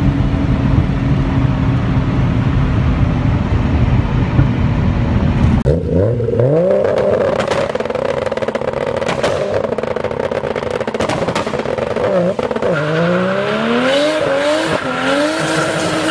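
A steady engine drone heard from inside a car. Then, about six seconds in, a turbocharged Nissan Skyline R34 revs with sharp exhaust pops and crackles, and near the end accelerates hard away through several gears, its pitch rising and dropping back at each shift.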